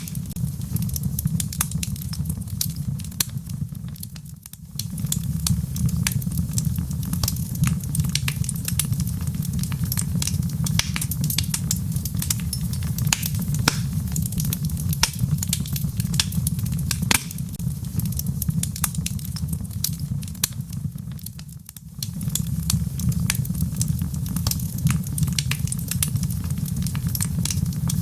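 Wood logs burning in a fireplace: a steady low rumble of flame with frequent sharp crackles and pops. The sound dips briefly twice, about four seconds in and again near the end.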